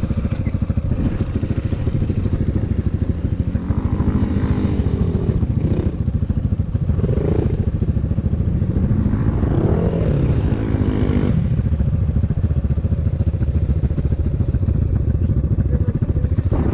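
Enduro motorcycle engine running under throttle, its pitch rising and falling several times as it revs up and eases off.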